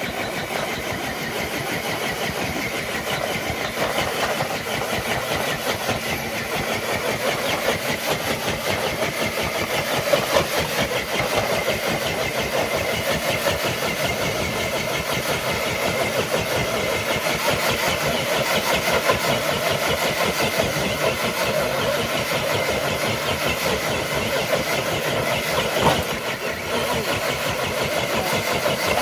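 RC truck's motor and drivetrain running steadily under load as it drags a weighted sled, getting slightly louder over the run.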